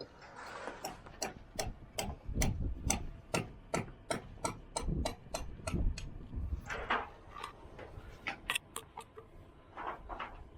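Rapid sharp taps of a bricklayer's tools on brick and mortar, about three a second for the first six seconds, then fewer and more irregular.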